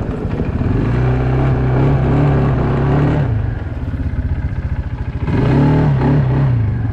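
Loncin X-Wolf 300 quad bike's engine speeding up twice. It pulls up from a low run for about two and a half seconds and drops back, then revs up again for about a second near the end.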